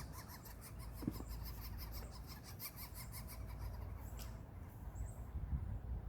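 Woodpecker nestlings begging at the nest: a rapid, high-pitched chattering of about eight short notes a second that stops about four seconds in.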